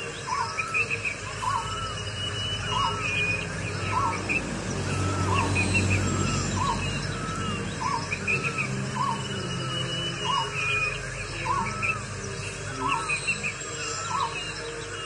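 Birds calling: one bird repeats a short hooked note very evenly, about three notes every two seconds, while other birds chirp and whistle higher up.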